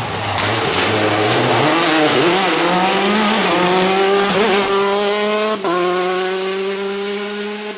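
Rally car engine accelerating hard: the pitch climbs for a second or two, then holds high, with a brief break about two thirds of the way through before it carries on at the same high pitch.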